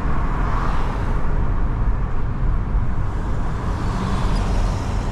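Car driving along a wet road: steady engine and road noise with tyre hiss, swelling twice as traffic passes, about half a second in and again around four seconds in.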